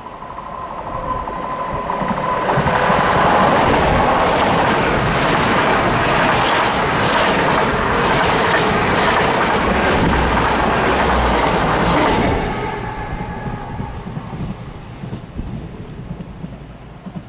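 GWR Hitachi Intercity Express Train (bi-mode IET) passing close by at speed: the rush and rumble of its coaches and wheels on the rails builds over the first few seconds and stays loud for about ten seconds. It drops off sharply as the last coach passes and then fades, with a few brief high-pitched wheel squeals partway through.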